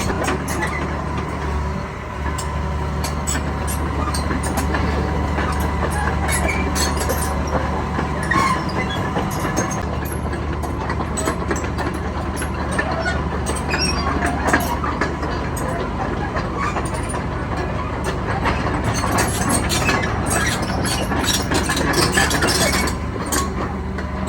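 Hitachi ZX330LC-3 excavator's diesel engine running steadily, with frequent metallic clicks and clanks over it. The low engine note changes about ten seconds in.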